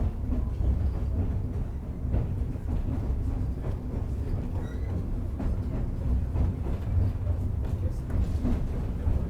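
Steady low rumble of a narrow-gauge passenger train rolling along the track, heard from an open car, with faint scattered clicks.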